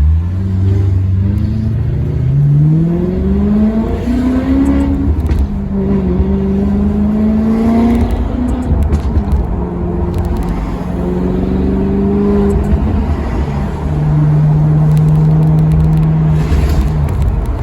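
Maserati Quattroporte Sport GT's V8 engine accelerating, its pitch climbing through two gears with a drop at each shift. After that it runs at a steady pitch for a few seconds and falls away near the end.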